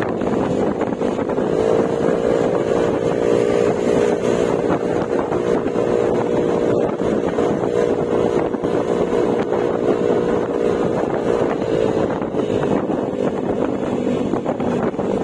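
Yamaha Mio Gravis scooter's single-cylinder engine running through an Akrapovic exhaust with silencer at a steady cruising speed, with wind noise on the microphone. The engine note rises slightly about two seconds in and drops back near the end as the throttle eases.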